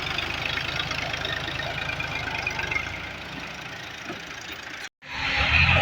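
Tractor diesel engine running with a steady low, even beat, easing off a little about three seconds in. It is cut off abruptly about five seconds in.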